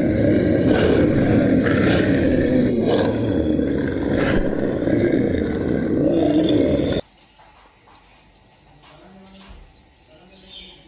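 A bear growling and roaring loudly for about seven seconds, then cutting off suddenly.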